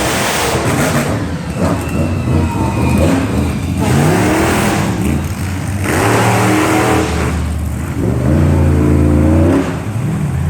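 Monster truck engine being revved repeatedly, its pitch climbing and falling several times.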